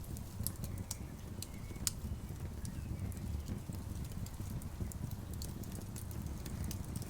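Campfire crackling, with irregular sharp pops and snaps of burning wood over a steady low rumble.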